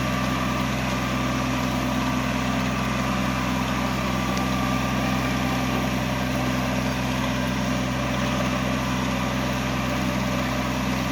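Mini tractor's diesel engine running steadily at a constant speed, driving a boom sprayer's pump, with no change in pitch or loudness.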